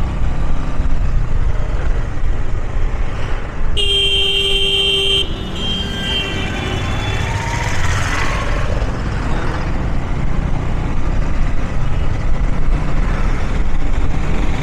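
Road traffic heard from a moving vehicle: a steady low rumble, with a vehicle horn honking for about a second and a half around four seconds in, then fainter honks.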